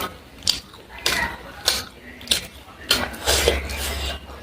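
Close-miked eating sounds: a person chewing crunchy food, with sharp clicks about every half-second and a longer crunching, smacking stretch near the end.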